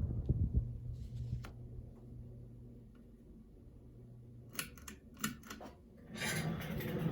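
Casablanca Zephyr ceiling fan's Emerson K55 motor humming and fading as it winds down, then a quick series of clicks from the fan's switch about five seconds in, and the motor humming up again as it restarts on low in reverse.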